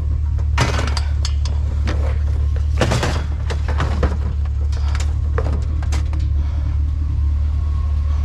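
Scattered clattering and knocks of junk being shifted in a trash can, thickest about a second in and again around three seconds in, over a steady low rumble of a vehicle engine idling.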